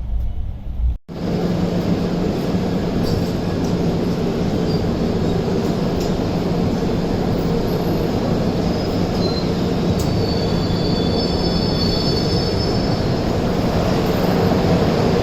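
Passenger express train running on the rails with a steady rumble and a low hum, starting abruptly about a second in. Thin high-pitched wheel squeal comes and goes in the middle.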